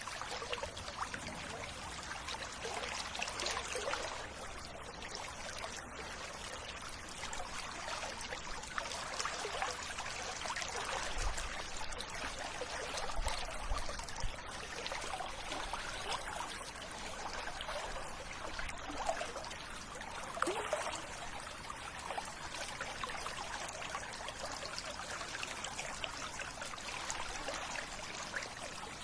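River water flowing and trickling steadily, with small splashing fluctuations.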